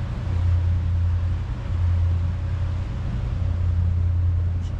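Motorboat engine running steadily under way, a continuous low drone with a steady rush of water and wind noise over it.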